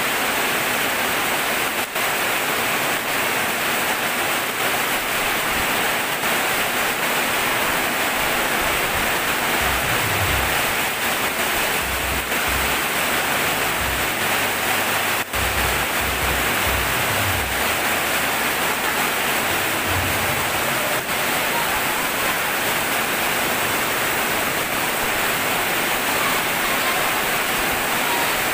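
Heavy rain falling in a steady, even hiss, with a low rumble coming and going in the middle.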